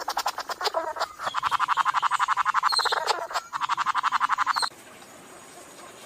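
Flame bowerbird giving a rapid rattling call in three runs with two short breaks, stopping suddenly about three-quarters of the way through.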